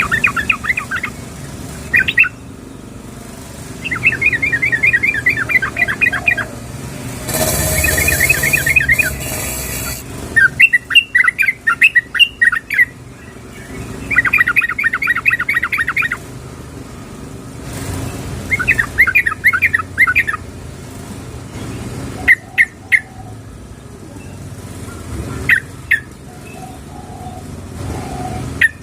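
Yellow-vented bulbul (trucukan) calling: bubbling runs of rapid repeated notes, each lasting one to two seconds and coming every few seconds, then a few short single notes in the last third; the uploader presents it as a female calling a male. A burst of rushing noise runs under one phrase for a few seconds near the start.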